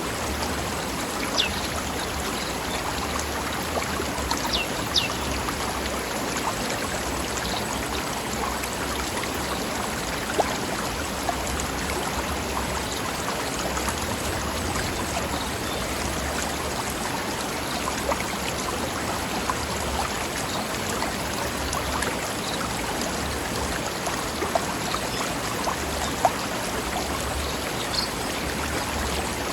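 Mountain stream running over rocks: a steady rushing babble with occasional small splashes.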